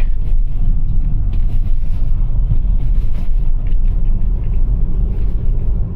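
Steady low rumble inside the cabin of a moving Toyota RAV4 Prime, as its Blizzak snow tires roll over a snow-covered road.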